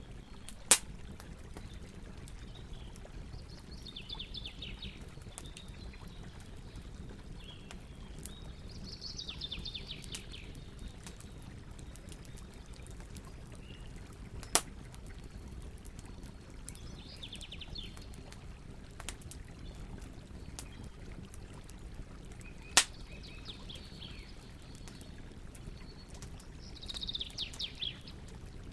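Wood campfire crackling with faint ticks and three sharp pops, over a steady rush of river water. A bird repeats a short trill of rapid notes about every five seconds.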